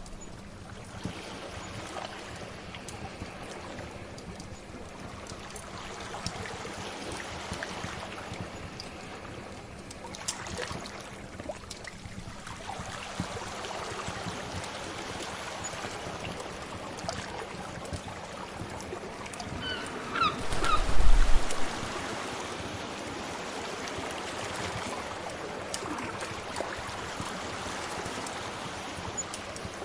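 Steady wash of sea waves with small crackles of a wood fire. About two-thirds of the way in there is a brief, much louder rumble with a few short high chirps.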